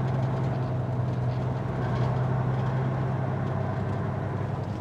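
Semi truck's diesel engine running steadily, heard from inside the cab as a constant low drone.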